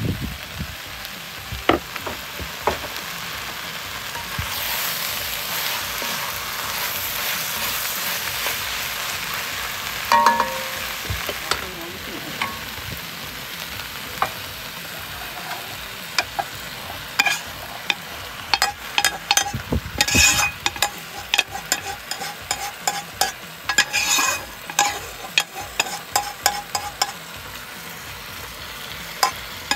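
Chopped peppers, tomatoes, carrots and potatoes sizzling in a hot pot while being stirred. In the second half a metal ladle knocks and scrapes against the pot many times as chunks of browned beef are spooned in.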